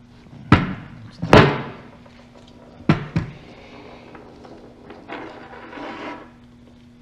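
Brake caliper parts handled and knocked about: two loud clunks in the first second and a half, a quieter double knock about three seconds in, then a short stretch of rubbing around five to six seconds.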